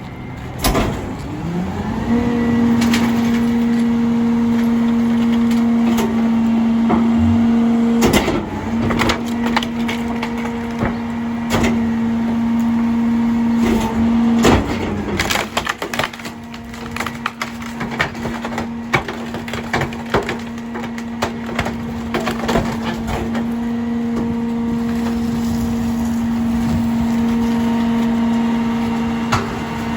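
Rear-loader garbage truck's diesel engine revs up about a second in and holds a steady high drone to drive the Heil DuraPack packer's hydraulics through a compaction cycle. Over it comes the cracking and splintering of trash and wood being crushed in the hopper. The engine drops back to idle near the end.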